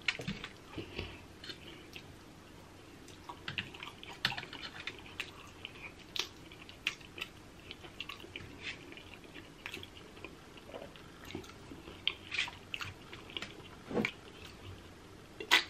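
Close-up chewing and lip-smacking of a person eating a seafood boil with butter sauce: wet mouth smacks and short clicks, scattered irregularly, with a sharper click near the end.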